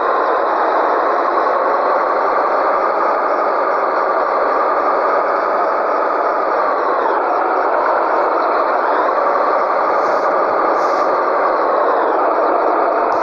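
Scania 113G truck's straight-six diesel engine running steadily under way; its pitch falls about seven seconds in and climbs again a couple of seconds later, as at a gear change.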